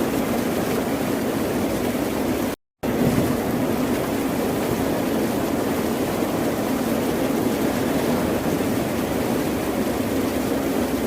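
Steady rush of ocean surf, a dense even wash of noise with no single breaking wave standing out. It cuts to complete silence for a fraction of a second about two and a half seconds in, then resumes unchanged.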